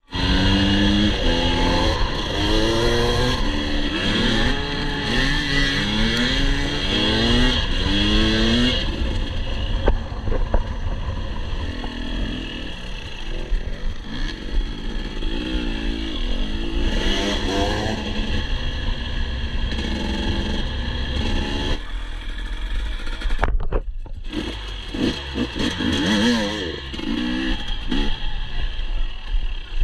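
Husqvarna TE 250i two-stroke enduro engine being ridden, revving up and down with the throttle and gear changes. The sound cuts out for a moment about two-thirds of the way through.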